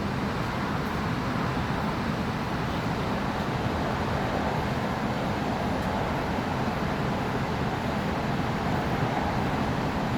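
Steady hum and rumble inside an Alstom Citadis Spirit light-rail car standing at a station with its doors open, from its ventilation and onboard equipment.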